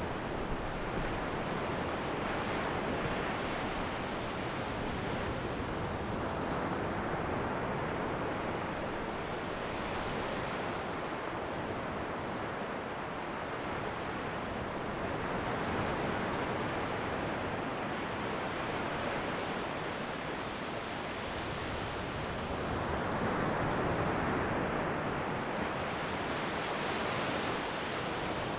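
Ocean waves breaking and washing on a shore, a continuous rushing that swells and ebbs every several seconds.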